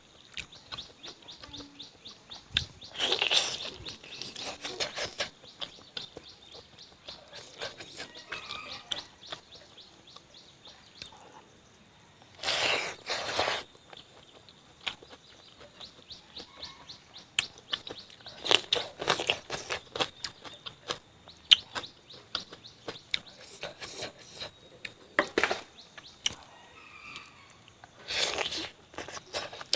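Close-up eating sounds: chewing and mouth smacks in many quick clicks, with a few louder, longer crunching spells. Birds chirp in the background.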